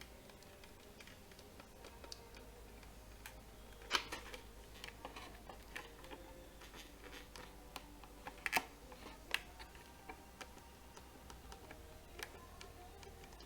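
Faint clicks and knocks of plastic fridge control-housing parts being handled and snapped together, with sharper clicks about four seconds in and twice more near nine seconds.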